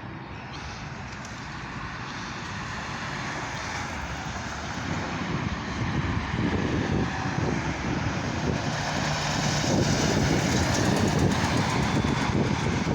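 Lockheed C-130H Hercules' four Allison T56 turboprop engines, a steady rushing rumble that grows gradually louder as the plane approaches.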